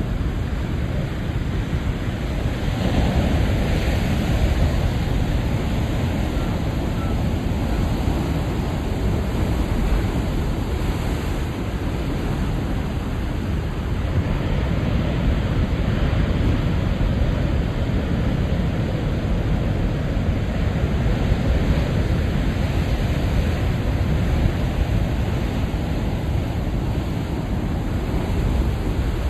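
Ocean surf breaking on a rocky shore at high tide, a continuous heavy rush of water that swells and eases slightly as waves come in, with some wind on the microphone.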